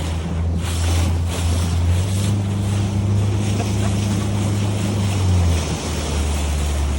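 Motorboat engine running steadily, its pitch stepping up about two seconds in and back down near six seconds, with wind buffeting the microphone.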